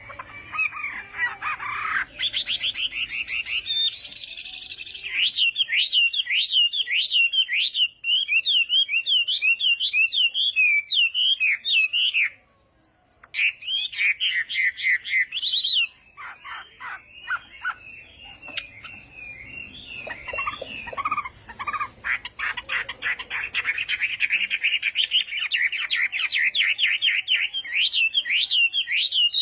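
Chinese hwamei singing: long runs of rapid, repeated whistled notes, changing phrase every few seconds, broken by a pause of about a second roughly midway, with some lower notes in the second half.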